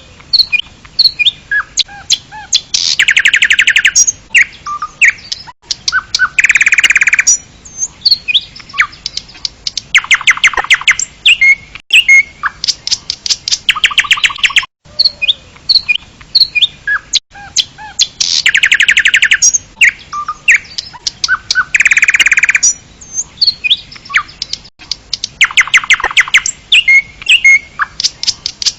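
Songbirds calling: many short chirps and whistled notes, broken by bursts of very rapid trilled notes about a second long. The same sequence repeats about halfway through, like a looped recording of birdsong.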